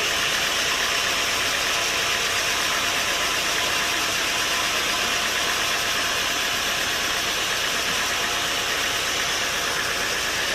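Sawmill machinery running with a steady, even mechanical noise that does not change.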